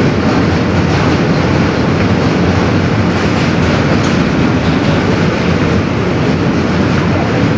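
An R160B subway car running at speed, heard from inside the car: a loud, steady rumble of the train in motion, with a brief click about halfway through.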